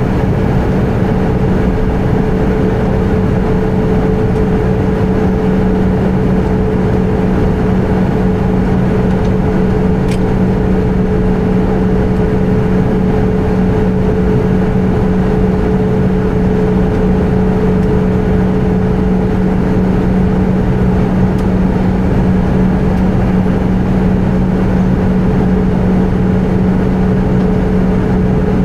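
Airbus A320 cabin noise in flight: a loud, steady drone of jet engines and airflow with a constant low hum, unchanging throughout, and one faint click about ten seconds in.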